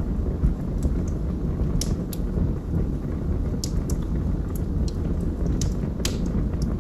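Crackling log fire: irregular sharp crackles and pops, about ten of them, over a steady low rumble of burning.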